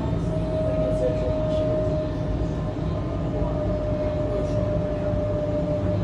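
Sydney Trains electric train running: a steady low rumble with a constant whine.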